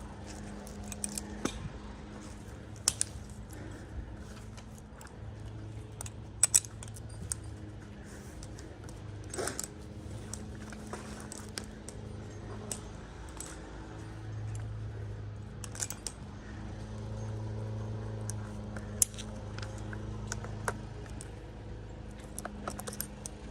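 Metal climbing hardware clinking and jingling in scattered sharp clicks, over a low steady hum.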